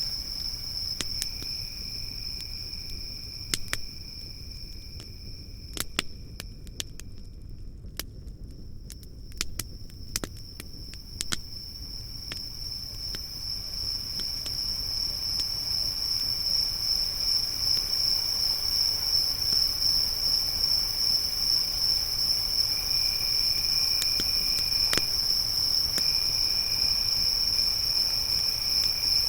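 Crickets trilling steadily at a high pitch, with a second, lower insect trill coming and going, over the sharp crackles and pops of a campfire. The pops are thickest in the first twelve seconds or so, and the insects grow louder in the second half.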